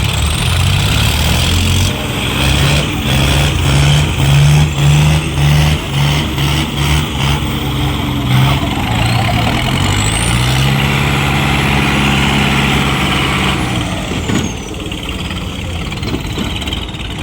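Diesel tractor engine labouring under heavy load in a tractor pull, its note pulsing unevenly, then revving up about ten seconds in and holding high before easing off near the end.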